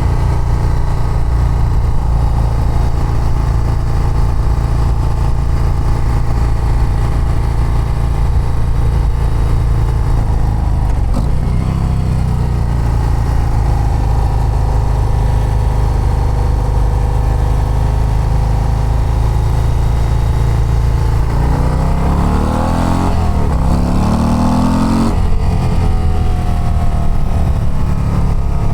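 Stock 2024 Harley-Davidson CVO ST's Milwaukee-Eight 121 V-twin running on the road at a steady cruise. A little over twenty seconds in it revs up as the bike accelerates, then drops back and runs steady again.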